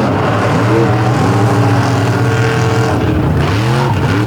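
Monster truck engines racing at full throttle, the pitch dropping and climbing again twice as the drivers lift off and get back on the throttle.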